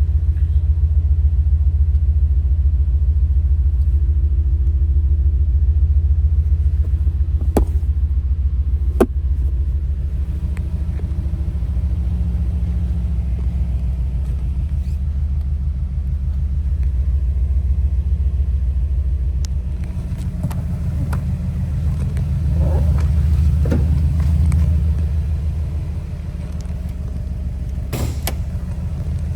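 A 2004 Subaru Impreza WRX STI's turbocharged 2.5-litre flat-four idling through its Borla aftermarket exhaust: a steady, deep rumble that swells a little now and then, with a few brief clicks.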